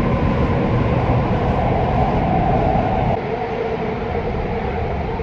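Metro train running on the line: a steady, loud rumble with a faint hum over it, easing slightly about three seconds in.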